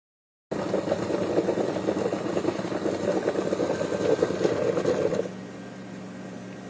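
Single-serve pod coffee maker's water pump running with a steady buzzing vibration, then dropping to a quieter hum about five seconds in.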